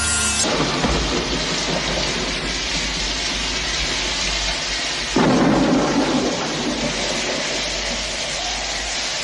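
Steady rain, with a sudden loud crack of thunder about five seconds in that rumbles and fades over a second or two.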